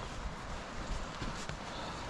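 Outdoor walking ambience: a steady low rumble of wind on the microphone with a few faint, soft footsteps.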